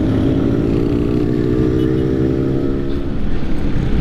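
Motorcycle engine running at a fairly steady speed while riding, over a heavy low rumble of wind on the microphone; about three seconds in the engine note fades and the sound becomes more uneven.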